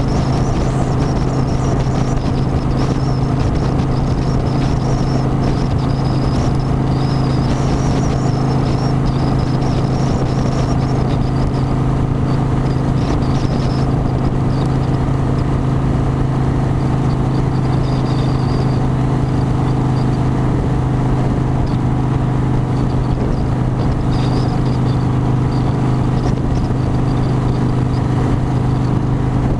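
Harley-Davidson motorcycle's V-twin engine running at a steady, unchanging speed, a loud constant low hum with a faint wavering whine high above it.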